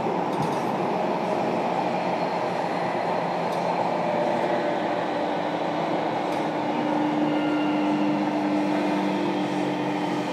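Running noise inside the motor car of a JR Kyushu 305 series electric train: a steady rumble of wheels on rail, joined about halfway through by a steady motor hum.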